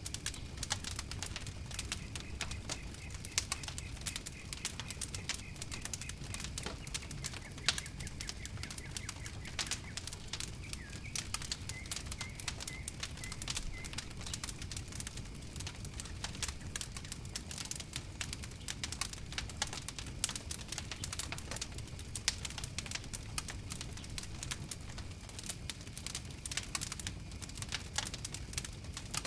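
Wood fire crackling and popping steadily over a low rumble of flames, with a faint high thin whistle through roughly the first half.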